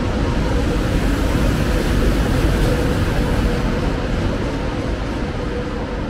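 Double-deck TGV Lyria trainset running past: a steady rumble of wheels and running gear with a steady hum over it. It is loudest about halfway through and eases off near the end.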